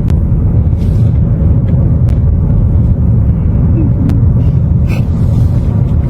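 Loud, steady low rumble of a car being driven, heard from the car, with a few sharp clicks over it.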